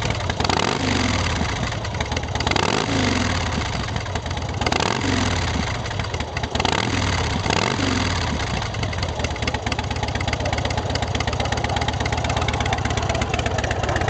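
The 117 cubic inch S&S V-twin engine of a 2007 Big Dog K9 chopper, through a Vance & Hines exhaust, revs up and falls back again and again, then runs steadily from about eight seconds in.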